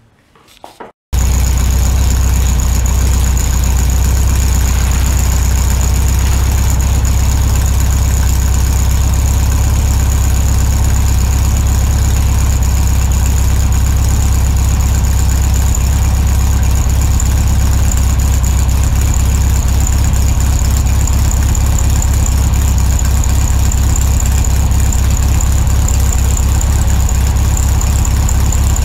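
Electric buffing machine with a foam pad running steadily against a canoe hull. It is a constant loud drone with a steady high whine, and it starts abruptly about a second in.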